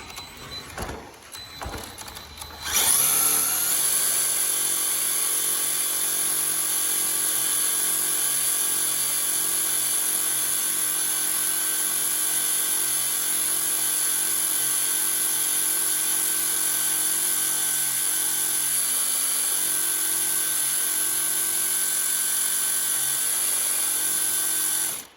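MST RMX 2.0 RC drift car's electric motor and drivetrain, spun up suddenly about three seconds in after a few light knocks and held at full throttle: a steady high whine with the wheels spinning in a burnout attempt on wet tires. It cuts off just before the end.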